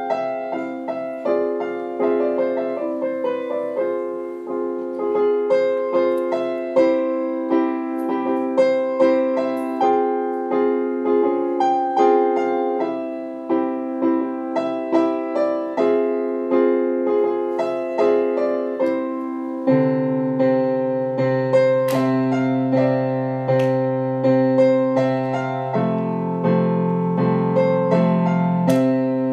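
Background piano music: a gentle, repeating pattern of notes, joined by lower bass notes about two-thirds of the way through.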